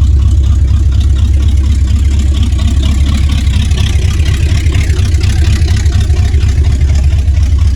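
Vehicle engine idling steadily after a cold start, a loud, deep rumble.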